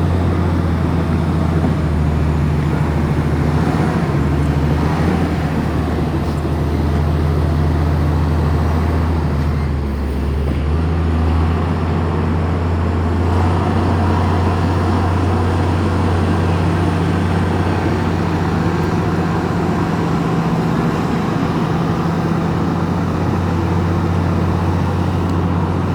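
Komatsu bulldozer's diesel engine running steadily while working, with a brief dip and change in the engine note about ten seconds in.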